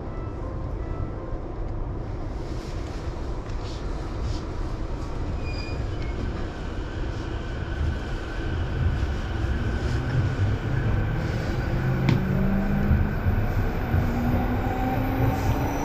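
Electric commuter train pulling away, heard from inside the car: a steady low rumble of wheels and running gear, and from about ten seconds in the traction motors' whine rising steadily in pitch as the train accelerates.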